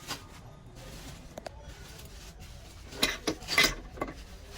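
Hard objects clinking and scraping together: a few light clicks, then a short burst of louder clattering and rubbing about three seconds in.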